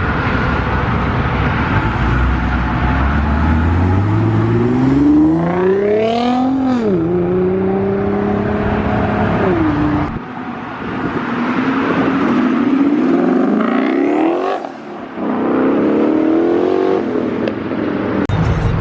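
A car engine revving hard as the car accelerates away. Its pitch climbs steadily for several seconds, then drops sharply at a gear change about seven seconds in. A second accelerating run climbs again in the second half.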